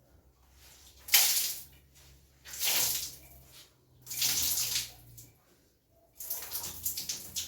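Water splashing and sloshing in a bathtub as clothes are washed by hand, in four short bursts.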